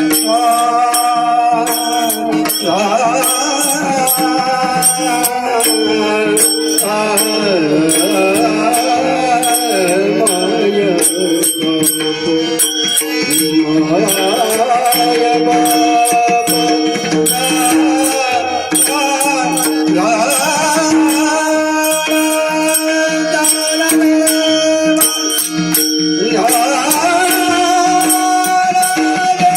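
An elderly man sings a Marathi devotional abhang, a slow bending melody over a steady held drone, with a jingling metal percussion keeping an even beat.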